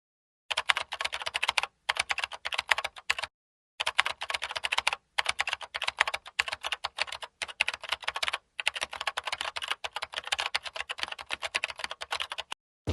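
Rapid computer-keyboard typing clicks in runs of a second or more, broken by several short pauses, stopping just before the end.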